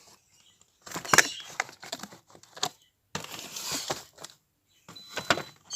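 Plastic food packaging and dessert pots being handled and set back on a fridge shelf: clicking, knocking and crinkling in three short bursts.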